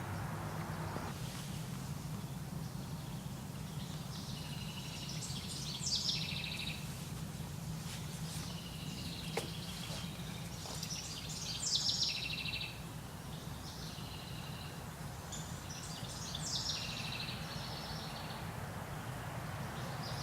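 A songbird singing short trilling phrases, repeated every few seconds, over a steady low rumble.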